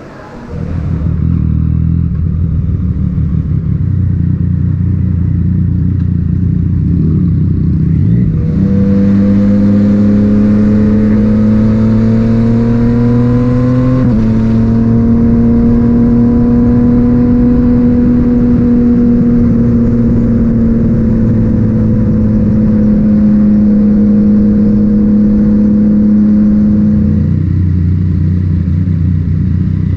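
Yamaha MT-09's three-cylinder engine through an Akrapovic titanium exhaust. It runs at low revs for several seconds, then pulls away with the revs rising. There is a gear change about fourteen seconds in, then a long steady run before the revs drop back near the end.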